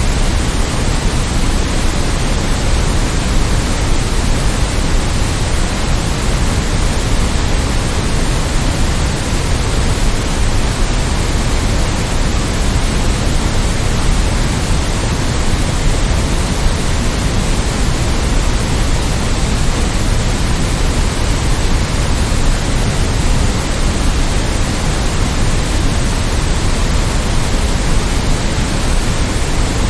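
Continuous generated white noise: an even, unchanging hiss spread across the whole range, with the most weight in the deep low end.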